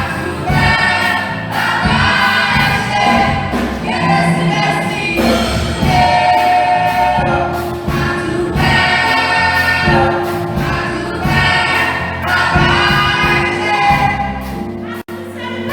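A choir singing a Christian song in harmony, in phrases of a second or two, over steady low accompanying notes.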